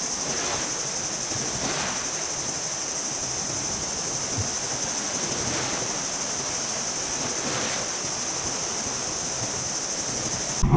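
Steady, high chirring of crickets over the wash of sea waves, with a few faint swells as waves come in. The whole ambience cuts off abruptly near the end.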